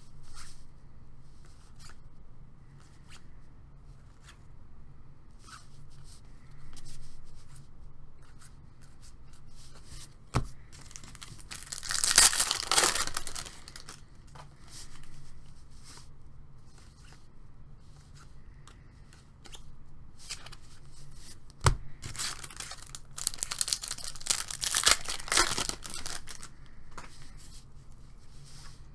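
Baseball card packs being torn open by hand, with light rustling and clicking of cards being handled in between. There are two louder bouts of tearing, one about a third of the way in and a longer one near the three-quarter mark, each with a sharp knock just before it.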